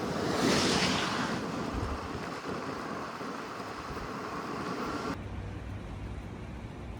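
Wind and rough sea noise on a ferry deck, with a loud rushing surge about half a second in. About five seconds in it cuts abruptly to a quieter low steady hum.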